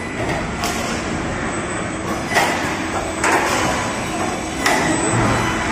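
Automated production-line machinery running steadily, with four sudden surges of rushing noise, each lasting under a second.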